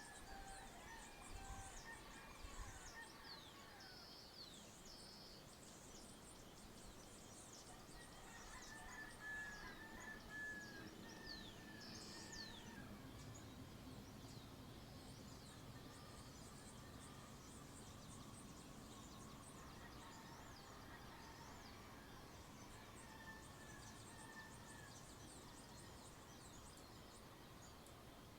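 Faint rural dawn chorus: many small birds chirping and trilling in quick high notes, with occasional longer calls among them, over a low background rumble.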